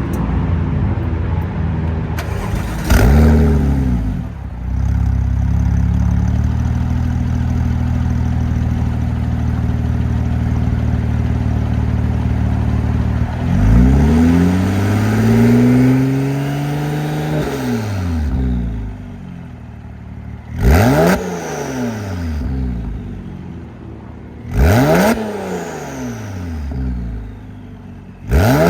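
Porsche 996 Turbo's twin-turbo flat-six running through a custom X-pipe exhaust with Helmholtz resonators, idling and being revved. A quick blip comes about three seconds in, then a long slow rev rising and falling about halfway through, then three sharp blips near the end.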